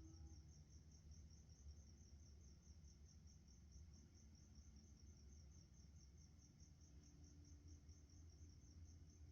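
Faint night insects chirping, a steady high pulse repeating several times a second, over a faint low rumble.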